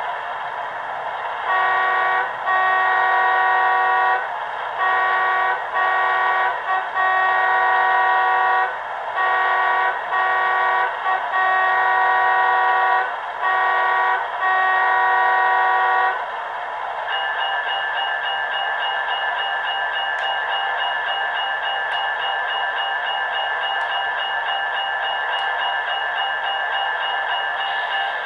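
A model locomotive's sound decoder playing an ALCO PA-1 diesel air horn: about ten chord-like blasts of varying length over some fifteen seconds. A steadier sound with a higher, fluttering tone then takes over.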